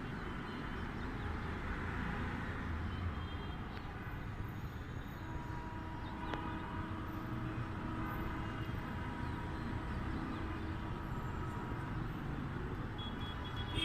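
Steady city traffic noise, a continuous rumble of passing vehicles, with a faint steady hum partway through.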